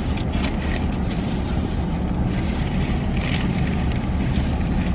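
Steady low rumble of a car's cabin noise, with light rustles and small clicks scattered through it.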